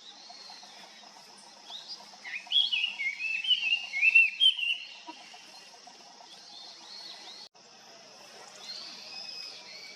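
Black-faced bunting singing: a twittering phrase of quick chirps and warbles lasting about three seconds, followed by fainter high calls.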